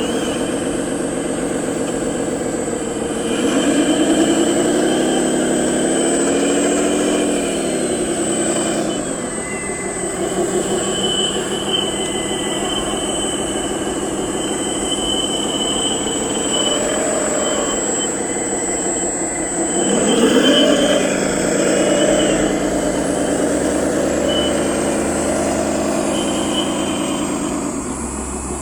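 Hydraulic RC construction model running, its electric motors and hydraulic pump whining steadily. The pitch rises and falls about four seconds in, and again about two-thirds of the way through.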